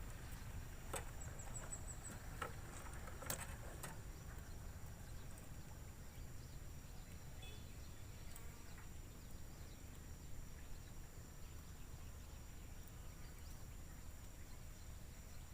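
Outdoor ambience dominated by insects droning steadily at a high pitch, over a low steady rumble. A few faint clicks come in the first few seconds.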